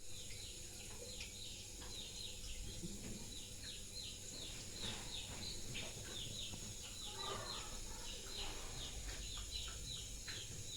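Birds chirping: a rapid run of short, falling chirps, several a second, over a steady low hum.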